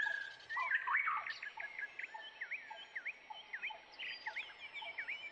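Small birds chirping: many short, high, overlapping chirps and twitters.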